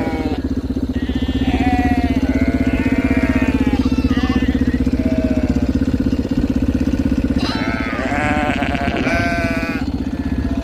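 Sheep bleating, several calls in two spells, one in the first half and one in the second, over the steady hum of a vehicle engine running.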